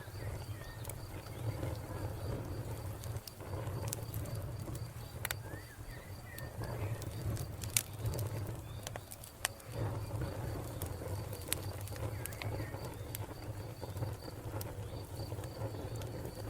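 Wood fire crackling with scattered sharp pops over a low steady rumble, while a cricket chirps in a steady even rhythm. A bird gives a few short calls about five seconds in.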